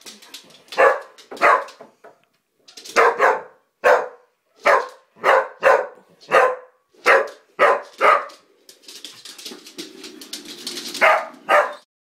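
Dogs barking: about a dozen sharp barks, mostly in quick pairs, then a pause of a couple of seconds before two last barks, and the sound cuts off suddenly.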